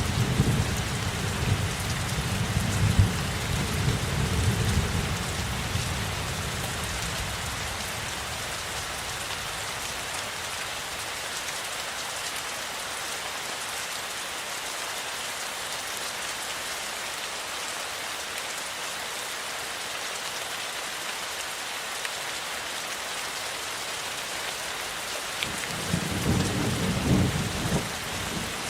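Steady rainfall hissing, with low thunder rumbling for the first several seconds and again briefly near the end.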